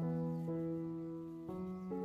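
Soft background piano music, slow notes that change about every half second to a second.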